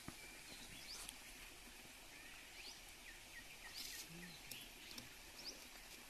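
Near-quiet open-air ambience with faint, scattered bird chirps, including a quick run of small chirps about halfway through.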